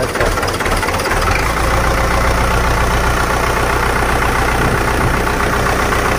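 New Holland Dabung 85 tractor's diesel engine running steadily at idle, its low rumble growing fuller about a second in.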